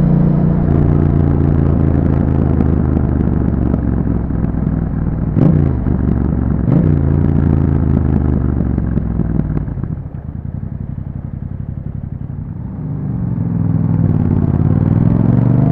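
2021 Yamaha MT-07's parallel-twin engine running through an Akrapovic exhaust with a YAHOM dB killer while riding, with two quick sharp revs about five and a half and seven seconds in. It drops quieter for a few seconds past the middle, then revs rising steadily under acceleration near the end.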